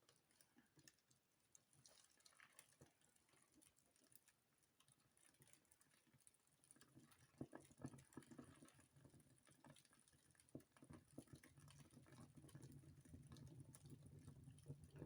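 Wood fire in a fireplace catching: faint scattered crackles and pops, with a low rush of flame building up from about halfway and growing louder.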